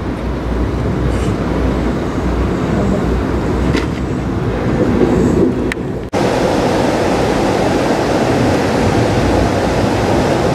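Amtrak California Zephyr passenger train in motion, heard from inside the car: a steady rumble of wheels on rail, with two sharp clicks. About six seconds in it cuts off for an instant, then goes on as a louder, brighter rushing run noise.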